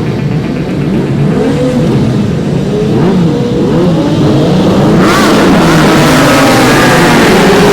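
Race car engines revving, their pitch rising and falling, growing louder about five seconds in.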